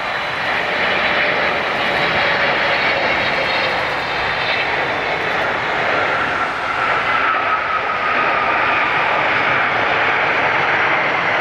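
Jet airliner's engines running loud and steady close by, with a faint whine that slides down in pitch from about six seconds in, as the plane passes.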